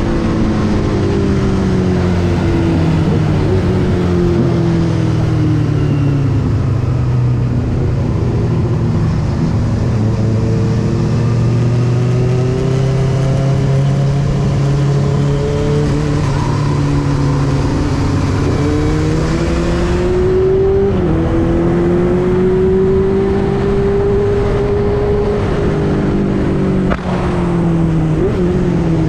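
Benelli TNT600i's inline-four engine running under way. Its note falls at first, holds steady, then rises again under acceleration, with a brief break near the end before it falls once more.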